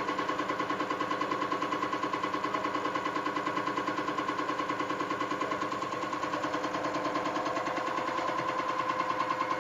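EUI/EUP test bench running a test on a CAT C13/C15/C18 electronic unit injector: the cam box drives the injector in rapid, even pulses, several a second, over a steady whine.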